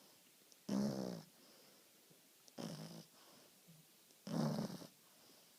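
French bulldog snoring gently in its sleep: three short snores, one about every two seconds.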